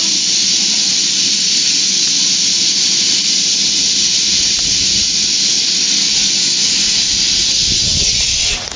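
Quarry Hunslet steam locomotive venting steam in a loud, steady hiss that cuts off suddenly near the end.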